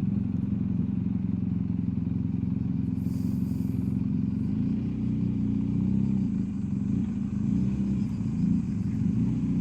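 BMW R1250GSA's boxer-twin engine running at low road speed, its pitch rising and falling a little in the second half, with a brief hiss about three seconds in.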